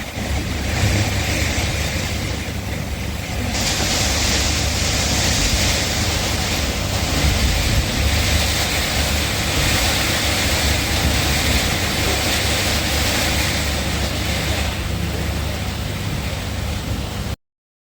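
Heavy rain and strong gusting wind, the wind rumbling on the microphone. The rain hiss grows heavier about three and a half seconds in, and the sound cuts off abruptly near the end.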